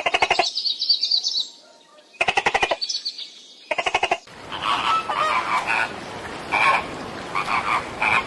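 Birds calling: three short bursts of rapid, honking calls in the first four seconds, then several birds calling over one another.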